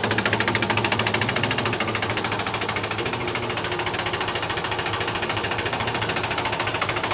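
Mahindra 265 DI tractor's three-cylinder diesel engine idling with a steady, rapid, even diesel knock.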